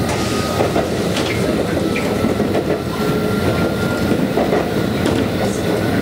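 Konan Railway electric train running on the Konan Line, heard inside the carriage: a steady rumble of wheels on rail with scattered rail-joint clicks and a faint high whine from about one to four seconds in.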